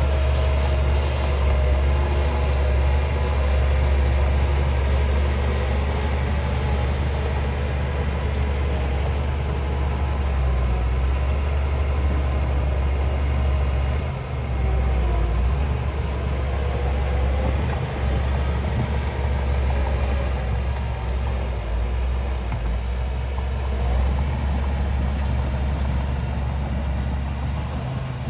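Heavy diesel engine of earthmoving machinery running steadily with a deep, continuous hum, briefly dipping twice about halfway through.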